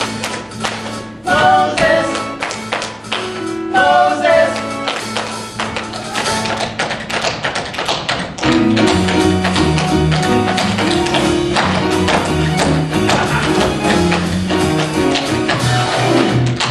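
Tap shoes beating out rapid, rhythmic steps over the song's musical accompaniment. A fuller band accompaniment with a bass line comes in about halfway through.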